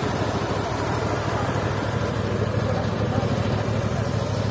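Engine of a mobile band sawmill running steadily, with an even, rapid pulsing and no change in speed.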